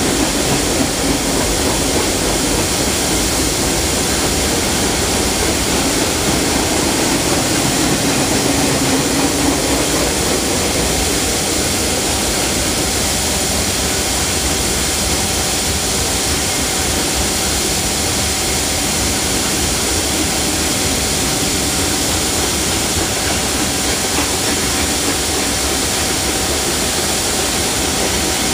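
Freight cars of a passing train rolling by on the rails: a steady, loud noise of steel wheels on track, with no pauses or single impacts standing out.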